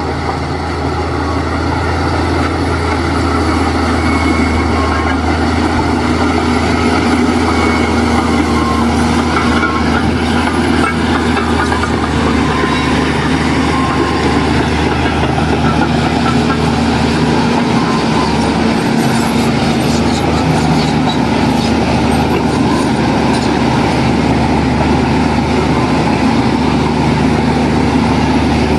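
Heavy diesel engine of an earthmoving machine running steadily at a deep, constant pitch, growing a little louder over the first few seconds.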